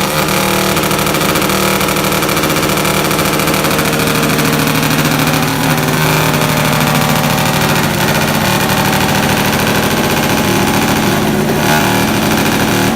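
Motor vehicle engine noise, loud and steady throughout, with no clear revs or breaks.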